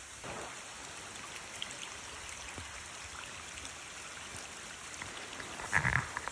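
A rain-swollen creek rushing steadily, with rain falling. A short louder noise near the end.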